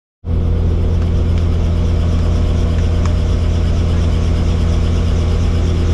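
Helicopter running in flight: a loud, steady drone of turbine and rotor with a strong low hum, cutting in at once at the start.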